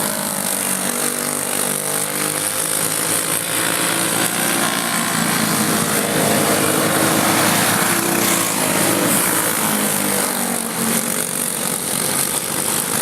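A pack of racing karts with small single-cylinder engines running on the track, engine notes rising and falling as they accelerate and lift off.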